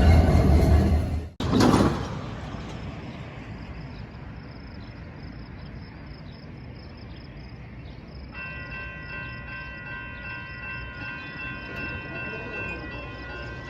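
Railroad trackside sound: a loud opening cuts off abruptly about a second in, then a low steady rumble. A little past halfway, a steady chord of several high tones starts and holds, like a distant train horn.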